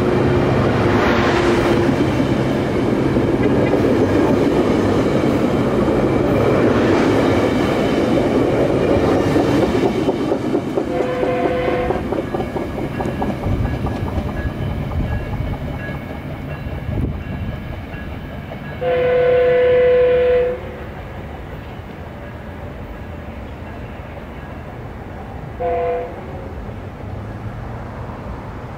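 A train rolling past with loud wheel-on-rail noise and clatter that fades away after about ten seconds. Then a train horn sounds three times, a chord of several notes: a short blast, a longer and louder blast about two-thirds through, and a brief toot near the end.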